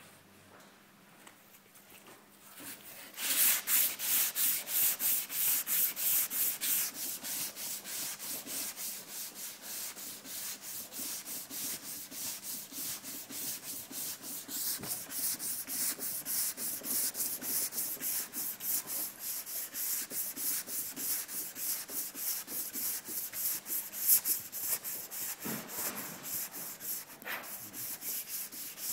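Sandpaper wet-sanding polyester body filler by hand, pushed back and forth with light pressure in quick even strokes, about three a second. The sanding starts about three seconds in.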